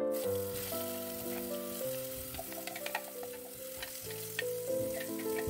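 Ground spice paste dropping into hot oil and sizzling in a pot, the hiss starting as the paste goes in. Piano background music plays over it.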